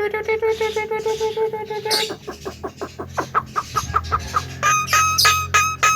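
Male Javan myna calling: one held whistle-like note for about two seconds, then a fast run of short chattering notes, then a string of clear repeated notes.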